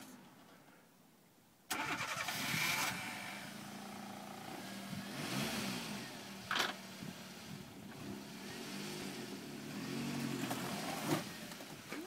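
Nissan Primera's engine revving up and down, stuck in broken ice and slush at the edge of a frozen lake. It comes in abruptly about two seconds in, with a short sharp noise about halfway through.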